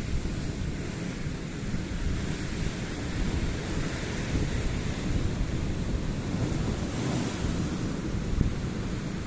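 Ocean waves washing on the shore, a steady rumble of surf swelling and easing, with wind buffeting the microphone.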